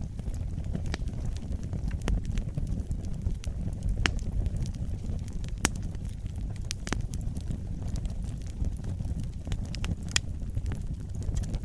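Wood fire burning with a steady low rumble, broken by irregular sharp crackles and pops from the burning logs.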